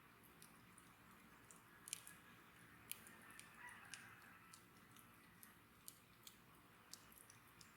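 Wood bonfire crackling faintly: irregular sharp pops and snaps from the burning wood over a soft steady hiss, with the loudest snaps about two and three seconds in.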